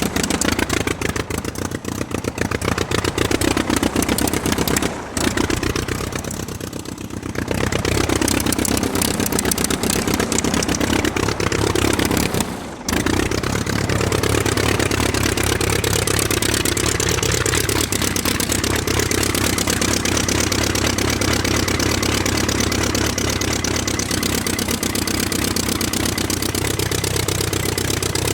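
A small engine running with a rapid clatter, its speed wavering up and down, with short breaks about five and thirteen seconds in.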